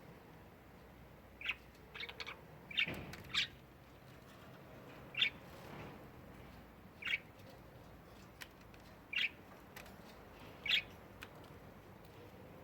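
Pet budgerigar giving a string of short, single chirps at irregular intervals, about nine in all, several bunched together near the start and then spaced a couple of seconds apart.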